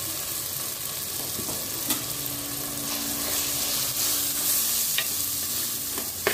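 Sliced shallots and tomatoes sizzling steadily in hot oil in a clay pot. About two seconds in, a spoon begins stirring chili and turmeric powder through them, with a few sharp clicks as it strikes the pot.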